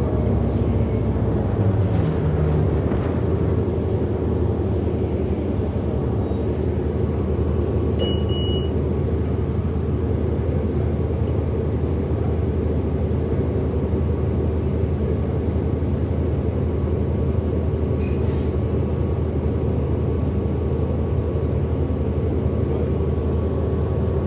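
Cabin sound of a 2008 Orion NG hybrid-electric bus under way: a steady drone of the drivetrain with several steady hum tones, and a motor whine falling in pitch over the first two seconds. A short high beep sounds about eight seconds in.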